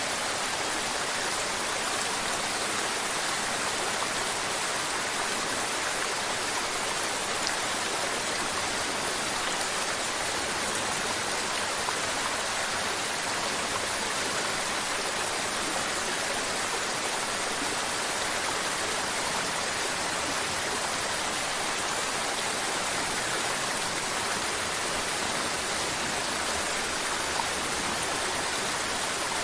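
Mountain river water babbling: a steady, even rush of flowing water, bright and hissy with little deep rumble.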